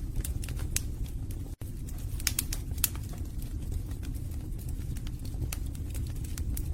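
Wood fire burning in a fireplace: a steady low rumble of flames with scattered sharp crackles and pops, the loudest pops a little over two seconds in and near the three-second mark. The sound cuts out for an instant about one and a half seconds in.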